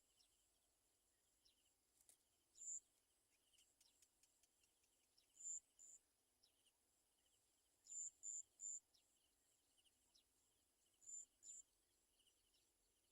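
Small bird giving short, thin, very high-pitched peeps, singly and in quick runs of two or three, with a faint twitter of other birds behind.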